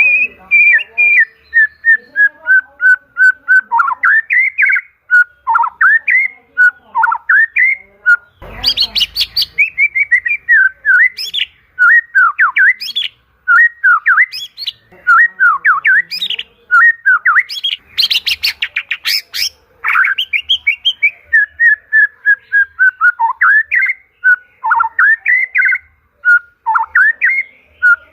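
White-rumped shama (murai batu) singing a long, varied song of loud whistled phrases that slide up and down in pitch. Twice it breaks into a rapid, harsh rattling chatter: once about eight seconds in, and again about eighteen seconds in.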